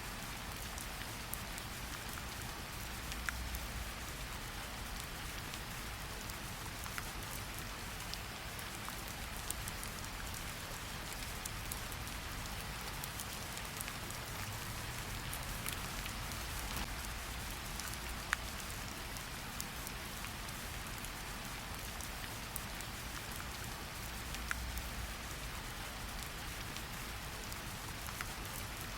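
Steady hiss of rain with scattered sharp pops and crackles of a wood fire in a fireplace, and a soft low rumble swelling twice.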